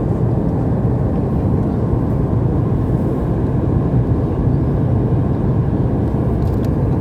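Steady low drone of a Boeing 737 MAX 8 in flight, heard inside the passenger cabin: engine noise and rushing air coming through the fuselage, even and unbroken.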